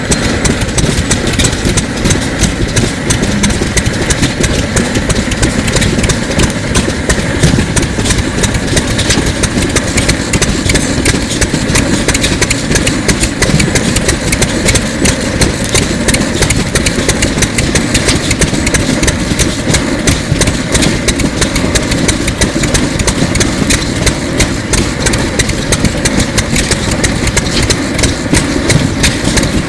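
A 1930s Sato 2 hp hot-bulb semi-diesel engine running steadily with a rapid, even knocking beat.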